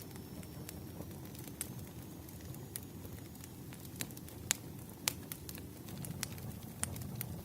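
Wood fire burning, crackling with irregular sharp pops and snaps over a low steady rumble of the flames. The loudest pop comes about halfway through.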